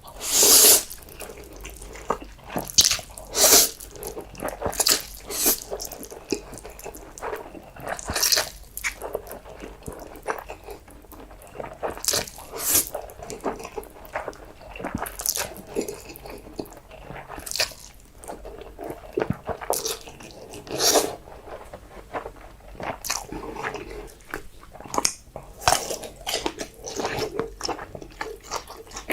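Close-miked eating sounds of spicy instant noodles: wet slurps and chewing in irregular bursts, the loudest about a second in and near eight and twenty-one seconds.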